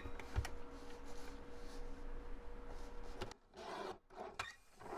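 Paper being handled and rubbed, a soft continuous rustling with a few light taps, then two short scraping rustles near the end.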